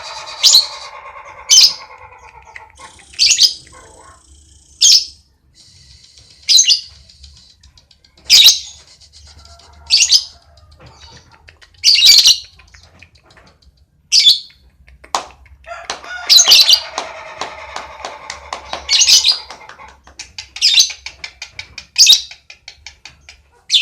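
Lovebird singing its long 'ngekek' song: a fast, unbroken high chatter punctuated by loud, sharp shrieks about every one and a half to two seconds, with stretches of lower, denser chattering near the start and again about two-thirds of the way through.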